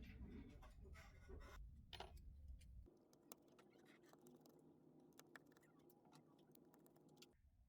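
Faint scratching and clicking of small tools working on a smartwatch's parts. A faint steady hum starts about three seconds in and stops shortly before the end.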